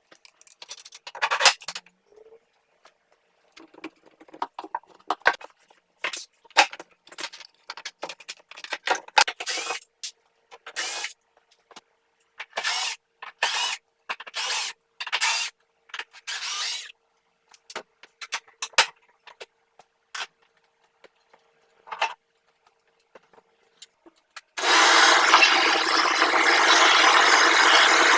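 Wood being handled, with a string of short rubbing and scraping sounds and a faint steady hum beneath. Near the end a power tool starts and runs loudly and steadily for about four seconds: the miter saw or its shop vac dust collection switched on.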